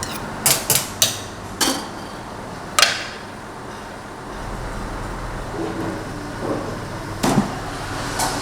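Meat cleaver chopping on a chopping block: about five sharp strikes in the first three seconds, then a couple more near the end.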